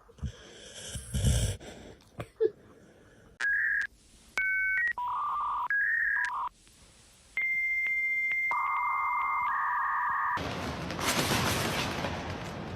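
A run of electronic beeps at a few shifting pitches, some brief and some held for a second or two, like telephone keypad or dial tones. About ten seconds in it gives way to a loud burst of static-like hiss.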